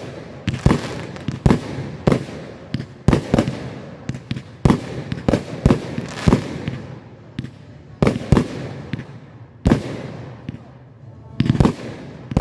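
Fireworks display: aerial shells bursting in quick, irregular succession, sharp bangs every half second to a second, each echoing away, with crackle and hiss between them. A short lull comes about ten seconds in, then a quick pair of bangs.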